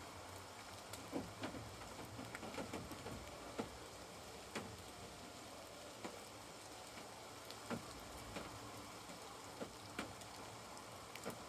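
Scattered raindrops tapping on a caravan, irregular sharp taps one to three a second over a faint steady hiss.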